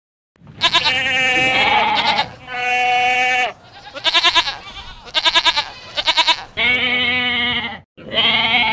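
Goats bleating: a string of about eight calls starting about half a second in, some held on one pitch and others shaking with a fast tremolo.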